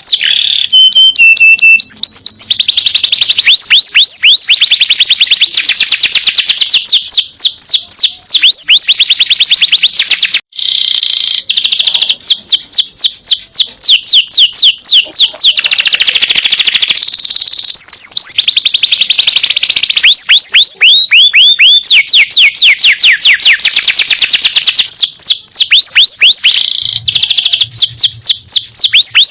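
Domestic canary singing loudly and without pause, in long rolling trills of rapidly repeated high notes, each note sliding down in pitch. The song breaks off for an instant about ten seconds in.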